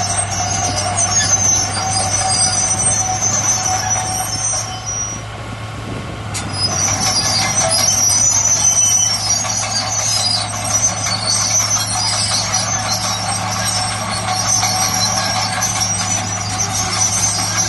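Heavy earthmoving machinery working: a diesel engine runs steadily, with high-pitched squealing over it. The squealing eases off briefly about five seconds in, then comes back.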